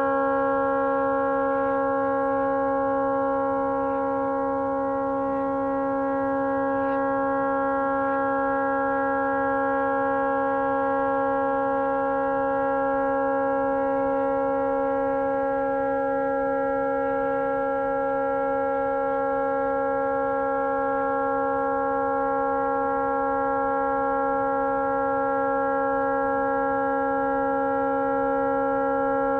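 Tugboat horn stuck on, blowing one unbroken, steady chord of several tones: the horn has malfunctioned and cannot be shut off.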